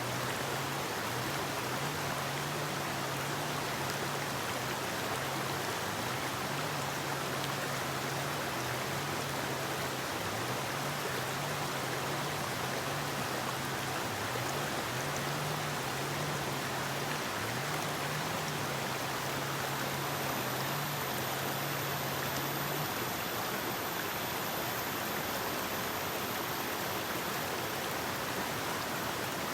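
Forest river flowing, a steady, even rush of water. Beneath it is a faint low wavering hum that stops about three quarters of the way through.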